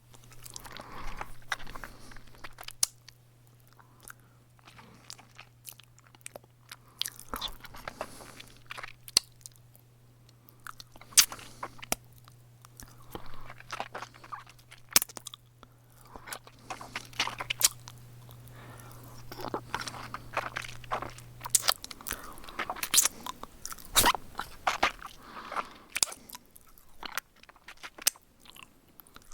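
A series of thumb-sucking mouth sounds: wet sucking with irregular sharp smacks and pops, coming in clusters with short pauses between them. A low steady hum sits underneath and stops about three quarters of the way through.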